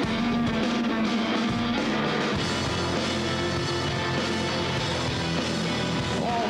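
A live rock trio of two electric guitars and a drum kit playing an instrumental passage with no singing. The lower guitar notes fill in about two seconds in.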